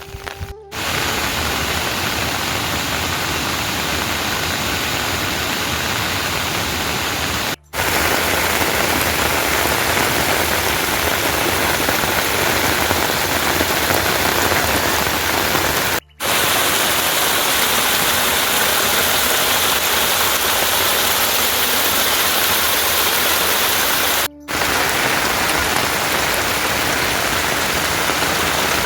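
Steady heavy rain, a dense even hiss broken by brief silent gaps about every eight seconds.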